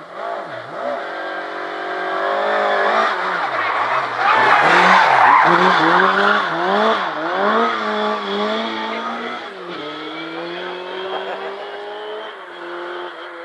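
Rally car engine revving hard, its pitch rising and falling again and again as the driver works the throttle and gears. It is loudest around the middle, then settles to a steadier, lower note and fades away as the car moves off.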